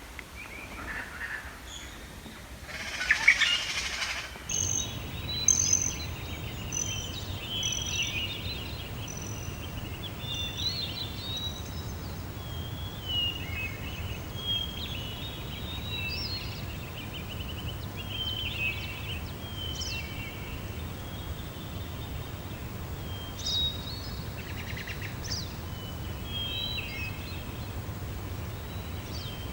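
Songbirds chirping and trilling, many short calls overlapping, with a steady low rumble underneath from about four seconds in. A loud, brief rushing noise comes about three seconds in.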